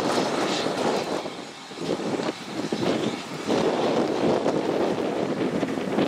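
Railway passenger coaches rolling slowly past at close range, a rumble of wheels on rails mixed with gusty wind buffeting the microphone.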